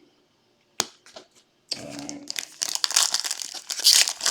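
A foil trading-card pack wrapper crinkling and tearing as it is ripped open, starting a little under two seconds in and growing louder, after a single sharp click about a second in.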